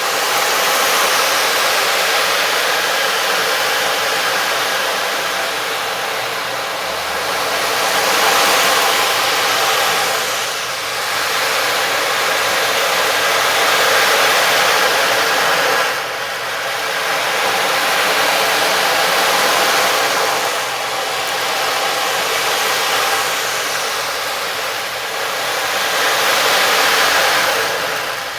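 A rushing, surf-like wash of noise that swells and fades in slow waves every five to seven seconds, with faint steady ringing tones beneath it.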